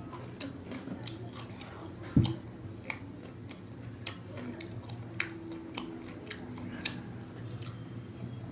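Close-miked chewing of butter naan, with many small wet mouth clicks and smacks. A single loud, low thump comes about two seconds in.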